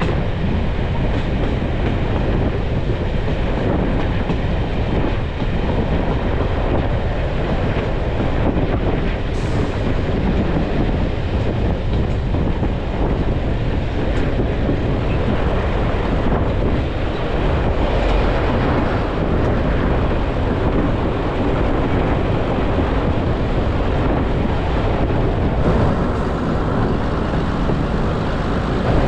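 A heritage railway passenger coach running along the line, heard from its open window: a steady rumble of the wheels on the rails with an irregular clickety-clack over the rail joints.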